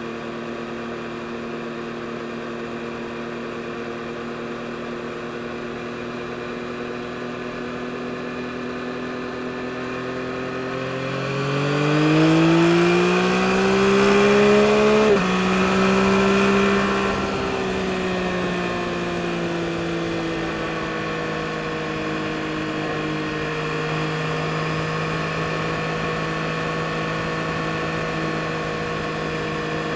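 Yamaha MT-09 SP motorcycle's 890 cc inline-three engine running at a steady cruise, then accelerating with its pitch climbing. About halfway through the pitch drops sharply, as at a gear change, then the engine eases off and settles back to a steady cruise.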